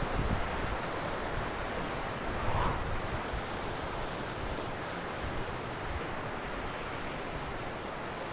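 Steady rushing of water from a waterfall, an even noise with no breaks.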